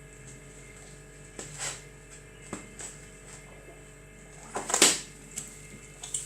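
A few scattered short knocks and rustles over a faint steady hum; the loudest comes a little under five seconds in.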